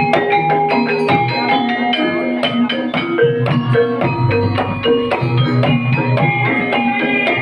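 Banyumasan gamelan music for an ebeg horse-trance dance: struck keyed percussion plays quick repeated melodic figures over drums in a steady, busy rhythm.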